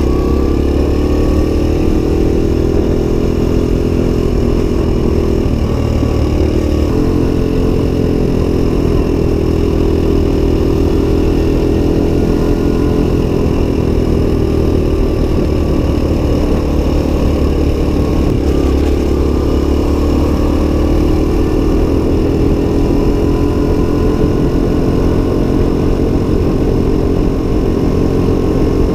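Suzuki DR-Z125's single-cylinder four-stroke engine running while ridden, its pitch rising and falling with the throttle, with a sudden change in pitch about seven seconds in.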